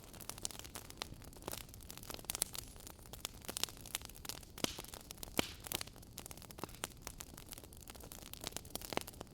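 Wood fire burning in a fireplace: crackling, with irregular sharp pops and snaps over a steady soft hiss, a few louder pops about halfway through and near the end.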